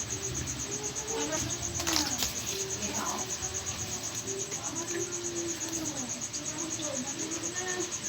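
A cricket trilling steadily in fast, even pulses, with a sharp click about two seconds in.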